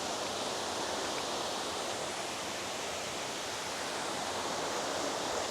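Waterfall's water rushing steadily, an even unbroken hiss.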